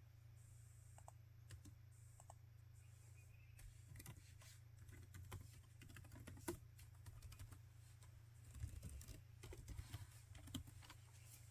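Typing on a laptop keyboard: soft key clicks, a few scattered keystrokes at first, then steadier typing from about four seconds in, over a faint low hum.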